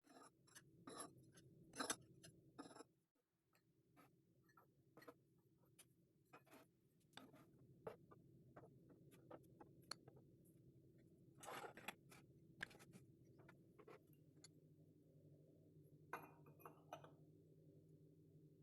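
Faint clicks, taps and light knocks of hands working in a kitchen, over a low steady hum.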